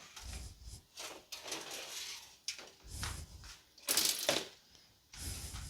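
Handling noises from shifting and turning a Revox PR99 reel-to-reel tape recorder: a string of knocks, scrapes and rattles, with the loudest sharp clatter about four seconds in and another knock near the end.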